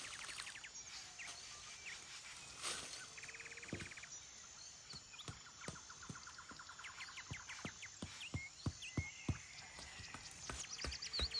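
Small birds chirping and trilling, with a quick high trill a few seconds in and a run of falling chirps near the end. Over them comes a string of sharp light clicks and knocks that grows busier towards the end.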